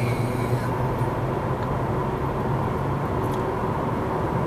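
Steady low hum of road and drivetrain noise inside a Chevrolet Volt's cabin as it coasts off the throttle downhill, recovering energy by regenerative braking.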